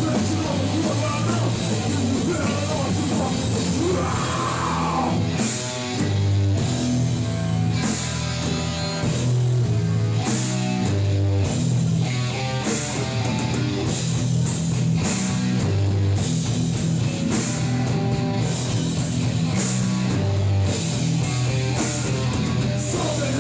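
Hardcore punk band playing live: distorted electric guitars and bass holding heavy chords over drums, with frequent cymbal crashes.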